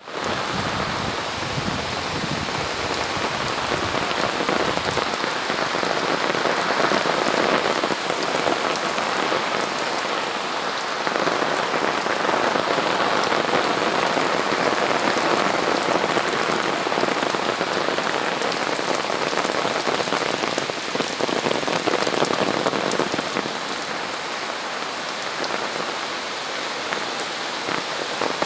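Heavy rain falling steadily, a dense hiss of drops with fine pattering on hard surfaces.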